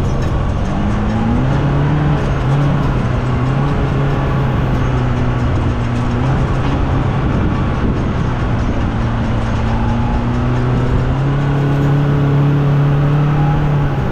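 Polaris RZR Pro R side-by-side's engine running hard under throttle, its pitch stepping up and down several times as the throttle changes, over steady wind and driving noise.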